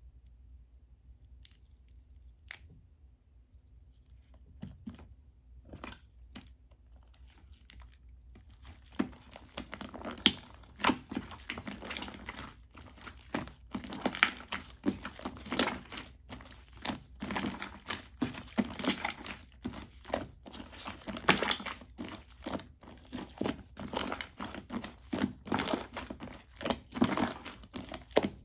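Shaving-foam slime being squeezed, stretched and pressed by hand, making crackling, crinkly popping sounds. A few soft clicks at first, then from about nine seconds in a dense, irregular run of crackles.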